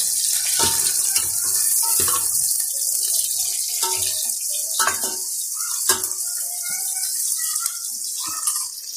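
Onions and green chillies sizzling in hot oil in an aluminium pot, a steady high hiss, while a steel ladle stirs and knocks against the pot several times. The sizzle drops away near the end.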